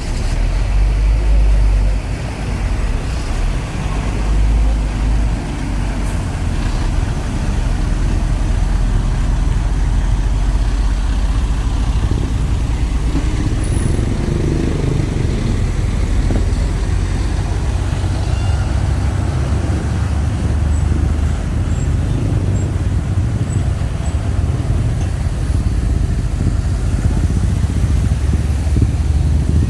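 Road traffic: engines of trucks and cars running close by in slow, congested traffic, a steady low rumble throughout.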